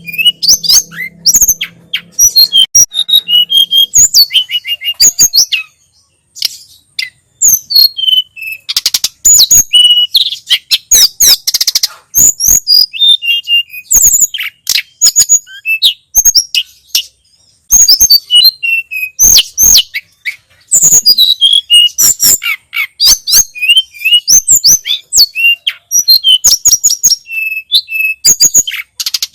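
Tledekan gunung (sulingan gunung) songbird singing fast and continuously: rapid rattling trills and chirps mixed with quick sweeping whistled notes, breaking off briefly twice.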